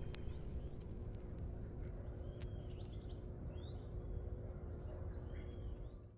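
Birds chirping and calling in short rising and falling notes over a steady low outdoor rumble, fading out near the end.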